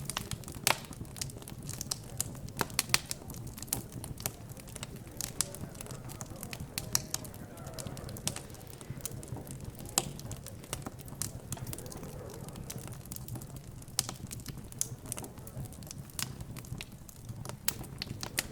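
Wood fire crackling with frequent irregular sharp pops, over a faint low murmur of background chatter.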